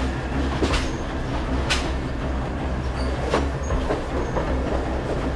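Passenger train running over a wooden trestle, heard from beside the carriage: a steady low rumble of the wheels on the rails, with a few sharp metallic clanks at uneven intervals.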